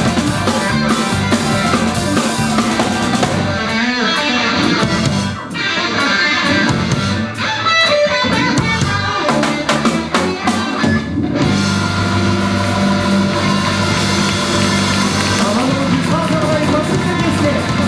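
Live rock band playing with drum kit and electric guitar. For a few seconds in the middle the cymbals drop back and a guitar line with bent notes stands out, then the full band comes back in.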